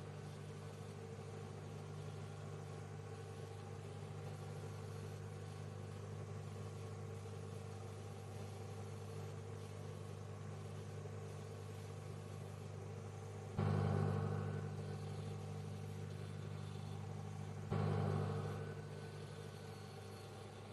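Microwave oven running with a steady electrical hum. Twice, about four seconds apart, the sound suddenly swells louder and fades back over about a second.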